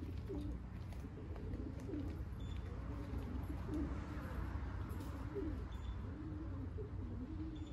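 Racing pigeons cooing, one low wavering coo after another without a break, over a steady low rumble.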